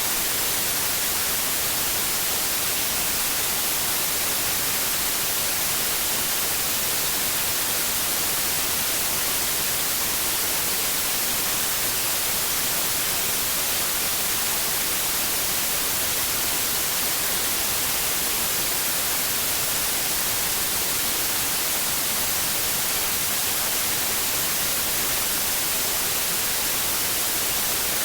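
Steady white noise: an even, unchanging hiss, strongest in the high frequencies, with no rhythm or tones in it.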